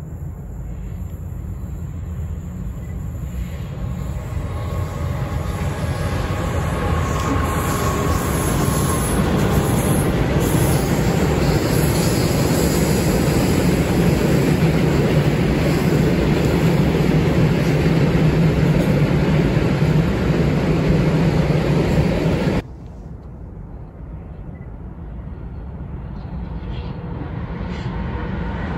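Freight train rolling past on the line, a steady low rumble of wheels on rail that grows louder over most of the stretch. Near the end it breaks off suddenly and a quieter train rumble takes over, building again.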